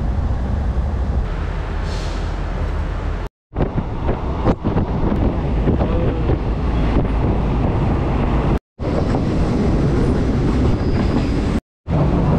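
Train running on the rails: a steady rumble with occasional clanks, cut off abruptly three times and resuming each time.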